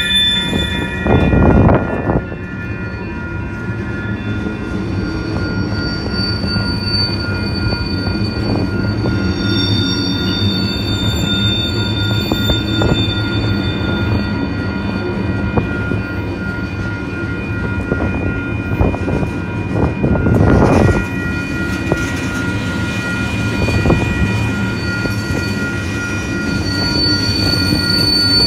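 Freight train tank cars and covered hoppers rolling steadily past with a continuous low rumble, and steel wheels squealing in steady high tones on the rails. Two louder rushes of noise come about a second and a half in and around twenty seconds in.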